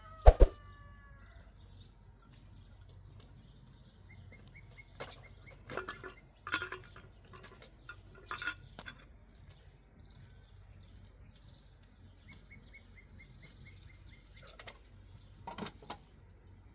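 Small birds chirping in short, quick trills, with a sharp clang just after the start that rings briefly and scattered knocks in between.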